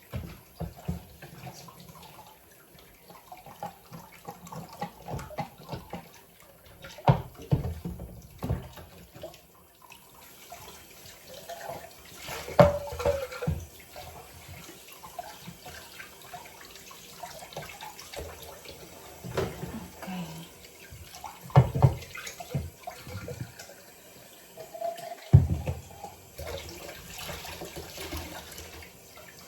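Tap water running into a sink while a vacuum-insulated travel mug is washed, with scattered knocks and clatters, loudest about a third of the way in and twice near the end.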